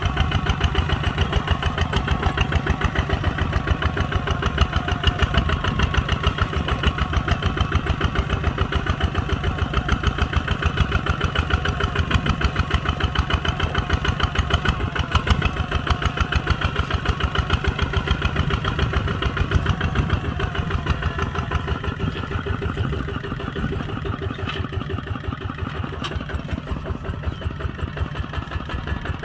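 Kubota ZT140 tractor's single-cylinder diesel engine running steadily while plowing, a rapid, even chugging beat. It gets a little quieter in the last few seconds.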